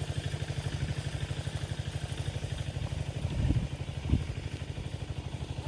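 A small engine running steadily at idle, a fast even putter, with a couple of low thumps about three and a half and four seconds in.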